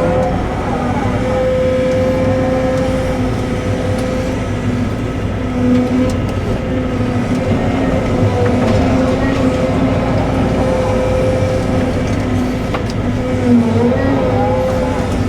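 Cat 313 hydraulic excavator's diesel engine running steadily under working load, with a constant whine that sags slightly in pitch now and then as the hydraulics take load.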